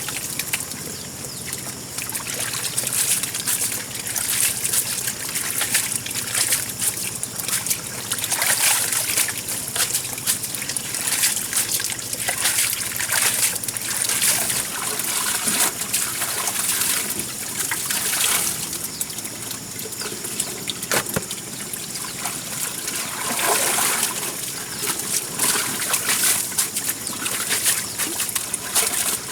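Water trickling and splashing in an uneven, continuous stream.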